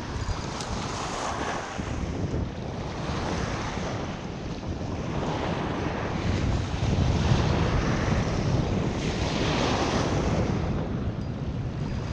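Wind buffeting the microphone in gusts, a deep rumble with a rushing hiss that swells and eases every few seconds, strongest in the second half.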